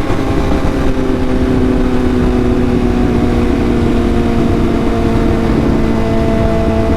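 Sport motorcycle engine running at fairly steady revs while riding, its pitch dipping slightly and then climbing slowly, over a steady low rush of wind and road noise.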